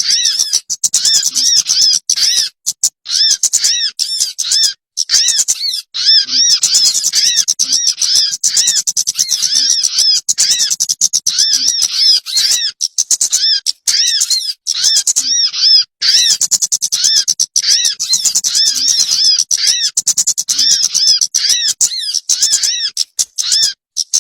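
Bird-lure recording (suara pikat) of songbird calls: fast, dense chattering with arched chirps repeated about twice a second, broken a few times by abrupt dropouts where the track is cut.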